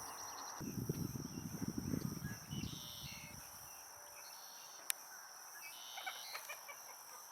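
Marsh ambience: a steady, high-pitched insect trill with a few short bird calls, and a low rumble through roughly the first half-second to three and a half seconds. A single sharp click about five seconds in.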